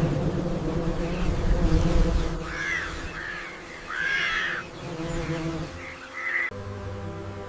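Steady buzzing of a bee swarm, with several short arched calls over it in the middle.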